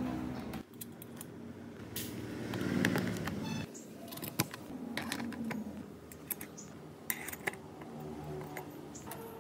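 A low hum in the first few seconds, then small metal parts clicking and clinking as a chainsaw's clutch needle bearing is slipped onto the crankshaft and the centrifugal clutch is fitted over it.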